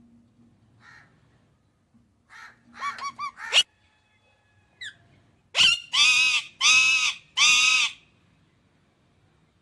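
Parrot calling: a quick run of short chirps about three seconds in, then four loud, harsh screeches of about half a second each in the second half.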